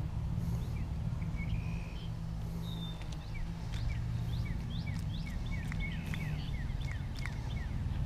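Small birds chirping: a run of short, quick downward-sliding chirps, several a second, with a few longer, higher notes mixed in, over a steady low rumble.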